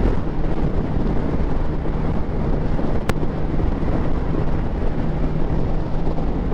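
Motorcycle being ridden at steady speed: the engine runs with a constant low hum under wind rushing on the microphone. One sharp click comes about three seconds in.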